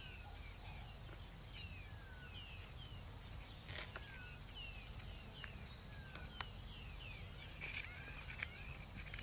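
Faint outdoor ambience of small birds chirping: many short, quick falling chirps over a low steady hiss, with a few soft clicks.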